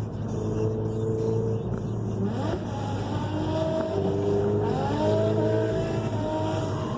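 Drift car engine revving hard, held at steady revs and then rising in pitch three times, about two seconds apart.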